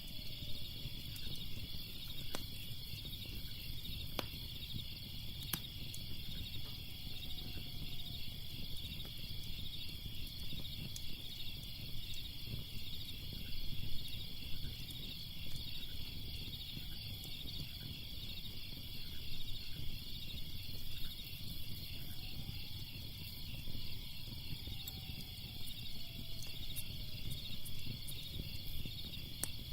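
Crickets chirping in a steady, pulsing chorus over a crackling fire, which gives a low rumble with sharp pops and snaps now and then.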